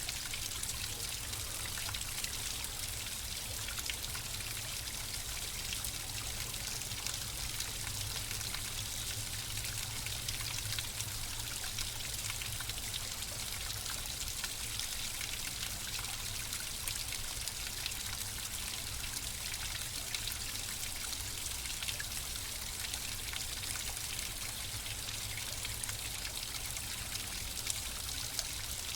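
Water flowing steadily over stones, trickling and splashing in a continuous, even rush.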